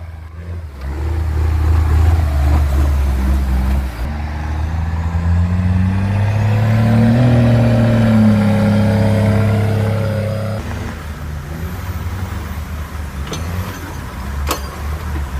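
Heavy truck's diesel engine running hard under load; its pitch climbs as it revs up about four seconds in and holds high, then the sound changes abruptly about ten seconds in. A few sharp clicks near the end.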